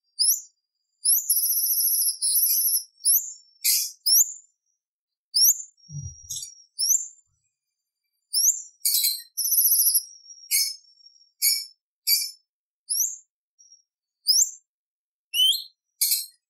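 Orange-bellied leafbird (cucak cungkok) singing a quick series of sharp, high, upward-sweeping whistled notes. These are broken by short rapid trills and harsh scratchy strokes, with brief pauses between phrases.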